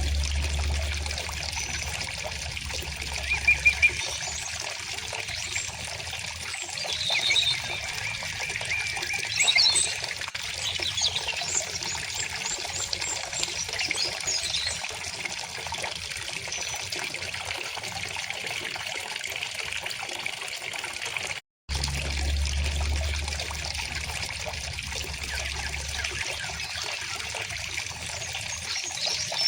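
A stream trickling and flowing steadily, with small birds chirping now and then above the water. The sound cuts out for a split second about two-thirds of the way through, then resumes.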